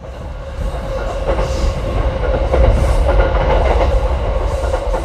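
A train rolling along rails: a loud low rumble with a rapid clatter of wheels over the track, building up over the first second.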